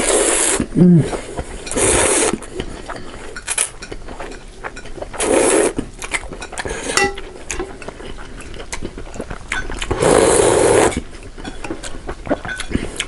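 Eating close to the microphone: utensils clinking and scraping against a bowl of noodles, broken by four loud, noisy slurps about a second long.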